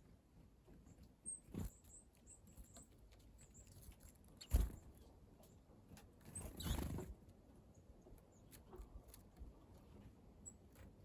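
Faint, short high-pitched calls of small wild birds, with a sharp knock about four and a half seconds in and a brief rustle a couple of seconds later.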